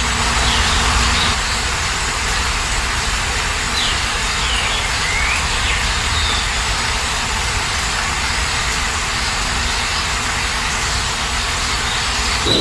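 Steady rain falling, with a few faint bird chirps about four to six seconds in.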